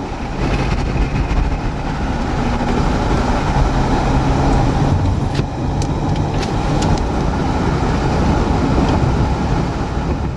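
Vehicle driving, heard from inside: a loud, steady rush of engine and road noise with a low hum under it. A few sharp ticks come a little past the middle.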